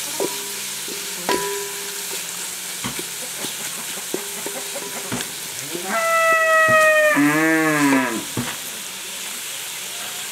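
Spring onions and tomatoes sizzling in ghee in an aluminium pot while a wooden spoon stirs and scrapes the pot now and then. About six seconds in, a cow moos once, loudly, for about two seconds: it starts on a high held note and then drops into a lower, deeper moo.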